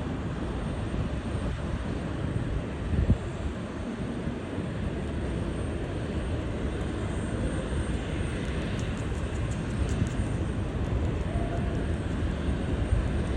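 Jet airliner engine noise, a steady rumble and hiss, with a brief low thump about three seconds in.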